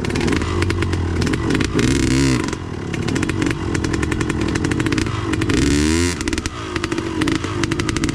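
Dirt bike engine revving up and down several times with a rattling clatter, as a stuck rider works the bike free on rocky ground.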